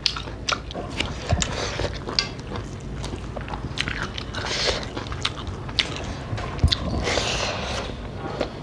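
Close-up eating sounds: chewing of rice and curry eaten by hand, with many short mouth clicks, picked up close on a clip-on microphone.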